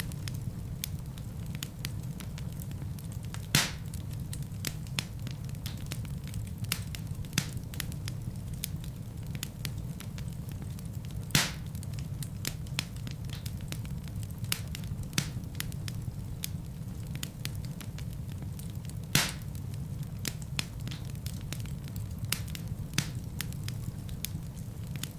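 Wood fire burning in a fireplace: constant small crackles over a steady low rumble, with a few louder pops, one about every eight seconds.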